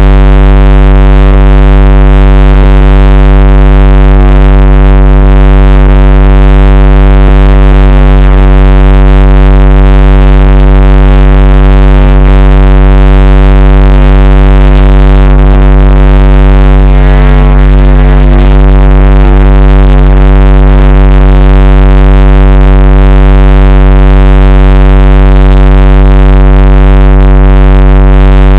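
A loud, unchanging electronic drone: a deep hum with many steady overtones stacked above it, held at full volume and distorted, with no change in pitch.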